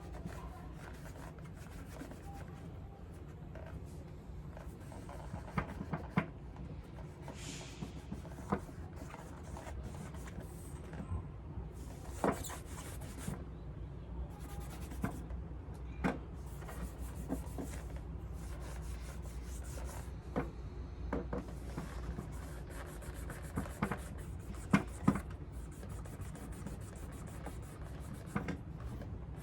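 Leather of a Paraboot Michael shoe being rubbed during polishing, a soft rubbing broken by scattered light knocks and clicks as the shoe and tools are handled.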